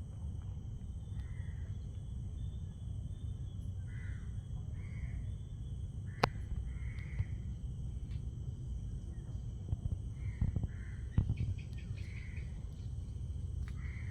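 Outdoor tropical ambience: a steady high-pitched drone of insects, with a bird giving short calls about eight times and a low rumble underneath. A few sharp clicks stand out, the loudest about six seconds in and again about eleven seconds in.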